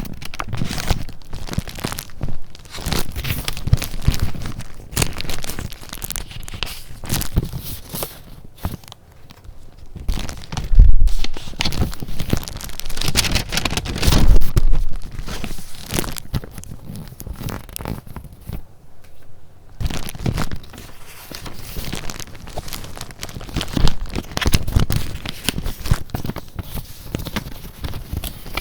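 Paper and journal pages being handled close to the microphone: irregular rustling and crinkling, with louder handling twice near the middle.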